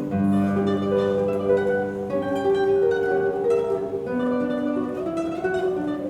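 Dan Kellaway classical guitar played solo: a fast tremolo melody of rapidly repeated plucked notes over sustained bass notes.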